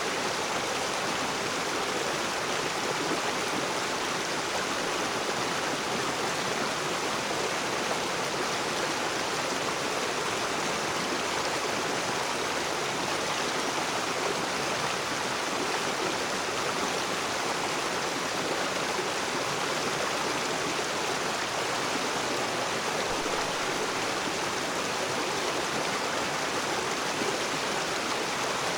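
A rocky river's water rushing and splashing over stones, a steady, even rush.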